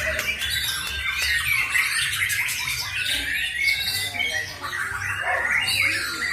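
Caged white-rumped shamas (murai batu) singing at a song contest: many birds at once, a dense, unbroken tangle of overlapping whistles, trills and chirps.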